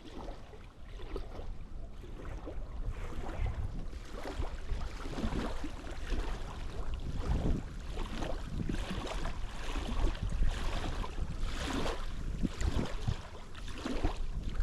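Strong gusty wind buffeting the microphone, with uneven swells and a deep rumble.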